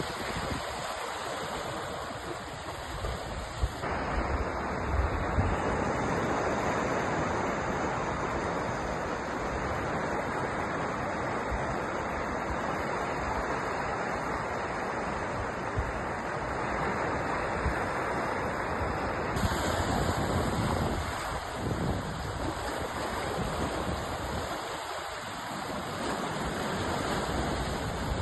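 Sea surf washing in a continuous rushing roar, its tone shifting suddenly about 4 seconds in and again about 19 seconds in.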